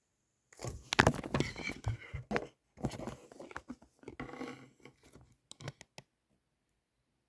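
Photocard packing sounds: plastic sleeves and wrapping crinkling and rustling as they are handled, with a few sharp clicks and taps near the end.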